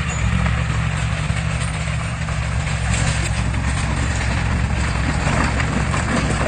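Heavy diesel engine of earth-moving equipment running steadily, with a continuous clatter and clanking of metal over it.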